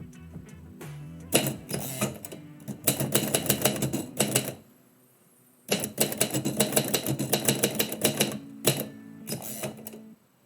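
Typewriter keys struck in quick runs of keystrokes separated by short pauses, three long runs and then a few brief ones near the end.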